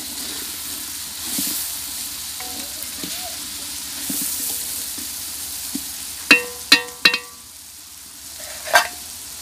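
Onion, tomato and spice masala sizzling and frying in a large aluminium pot while a wooden spatula stirs and scrapes through it, with a steady hiss. About six seconds in come three sharp ringing knocks in quick succession, and one more near the end.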